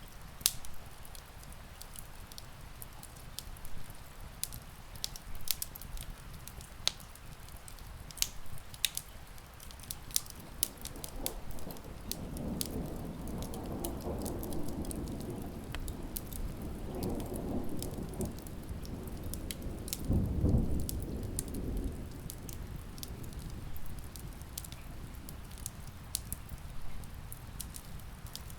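Steady rain with sharp crackles and pops from a wood fire throughout. A low rumble of distant thunder swells about midway and is loudest around twenty seconds in, then fades.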